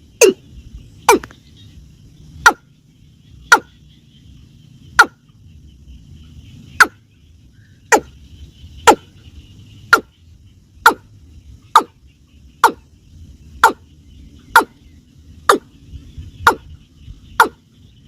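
Watercock calling: loud, short notes repeated steadily about once a second, each dropping slightly in pitch, the pace slowing a little in the first couple of seconds. Insects buzz faintly behind.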